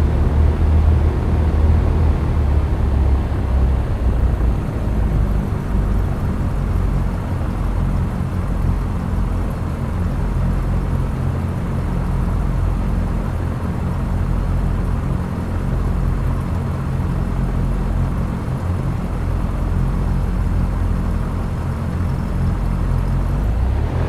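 Cessna 172's piston engine and propeller droning steadily in flight, a constant low hum whose tone shifts slightly about five seconds in.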